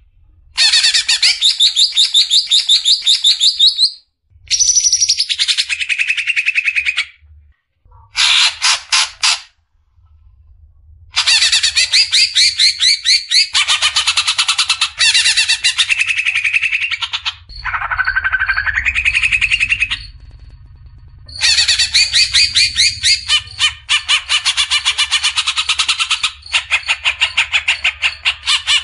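Green leafbird (cucak ijo) singing in its rapid 'besetan' style: fast trains of sharp, repeated notes, each run a few seconds long, broken by short pauses.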